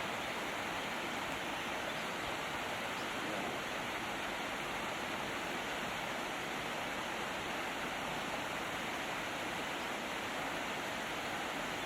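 Steady, even rushing hiss with no distinct sounds in it.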